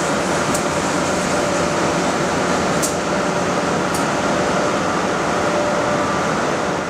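A train running, a steady rushing rumble with a faint whine and a few sharp ticks, about three across the seconds.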